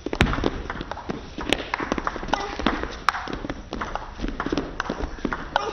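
Spectators in an arena clapping: many rapid, irregular claps that break out suddenly.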